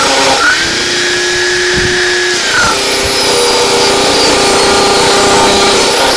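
Electric power tool motor running at speed with a steady whine. It winds down with a falling pitch about two and a half seconds in, then runs on steadily.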